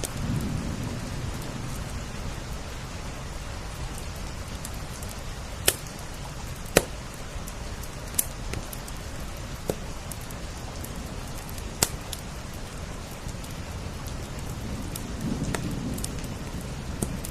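Steady rain on window glass blended with a wood fire crackling, with a handful of sharp pops at irregular intervals and soft low swells of the fire near the start and near the end.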